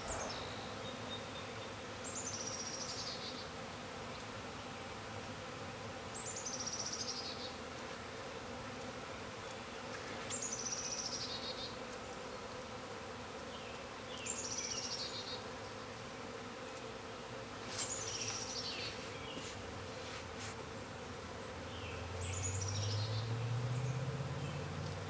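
Swarm of honeybees buzzing steadily, the hum of a colony that has just swarmed. A bird sings a short falling phrase about every four seconds, and a low drone rises in pitch near the end.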